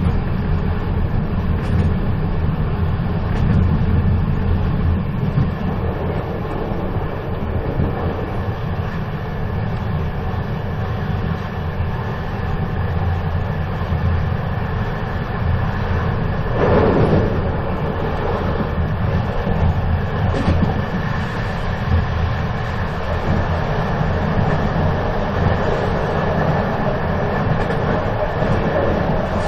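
A moving train running steadily: a continuous low rumble, with a brief louder sound about seventeen seconds in.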